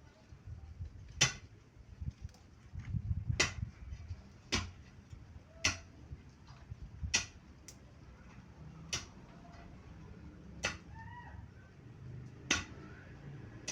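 Repeated sharp knocks, about eight of them, irregular and one to two seconds apart, with low rumbling handling noise in the first few seconds.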